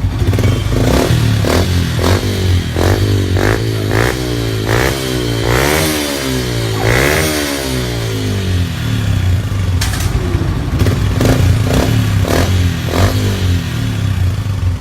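A Yamaha Exciter 135's single-cylinder engine idles through a modified two-baffle exhaust and is revved in a string of quick throttle blips. A couple of longer revs rise and fall around the middle, and more short blips come later.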